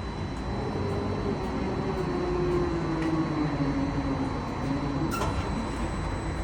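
Crane machinery running with a steady low rumble and a whine that slowly drops in pitch. A single sharp knock comes about five seconds in.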